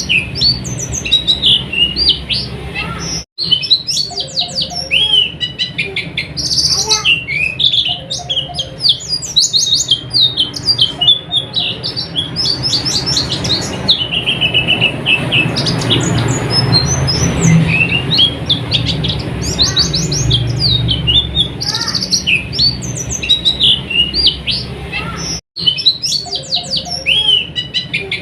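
White-eye (pleci) singing a fast, continuous twittering song of short high chirps, the ngeriwik style used as a tutor song for cage birds. The song cuts out for an instant twice, over a steady low hum.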